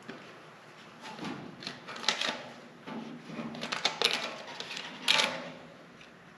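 A patch template being handled and fitted against a car fender: short bursts of rustling and light clicks, the loudest about five seconds in.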